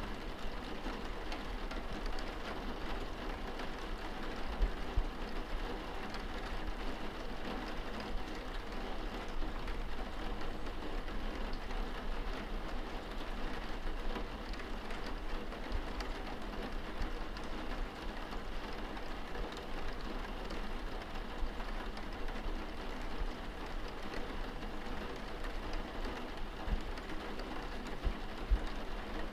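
Steady rain on window glass, heard from indoors, with a dense patter of drops and occasional sharper individual drop ticks.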